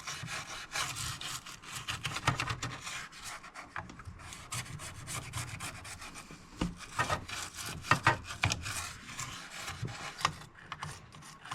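Soft-bristle toothbrush wet with isopropyl alcohol scrubbing a circuit board: a quick, irregular run of short scratchy brushing strokes.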